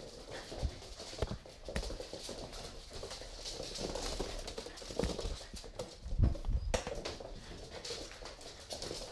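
Three-month-old pit bull puppies playing: scattered thumps and knocks of paws and bodies on the floor, loudest about five and six seconds in.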